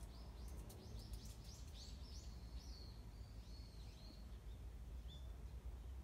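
A small bird chirping faintly: a quick run of high twittering notes that bend up and down, dying away after about four seconds, over a steady low background hum.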